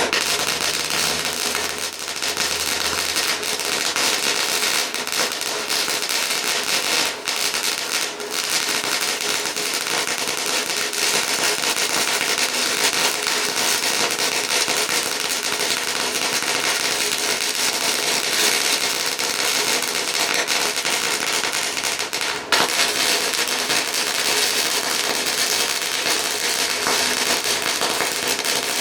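Flux-core wire-feed (MIG) welder arc crackling steadily as a weld bead is laid, with a few brief breaks in the crackle.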